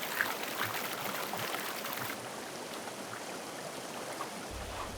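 River water flowing and rushing over rocks, a steady wash of noise.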